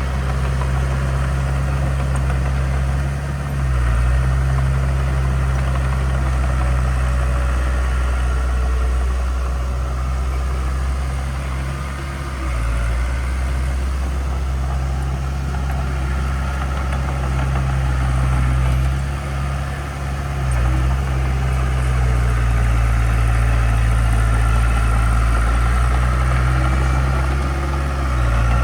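Diesel engine of heavy earthmoving equipment running with a steady low drone that eases off briefly and picks up again several times.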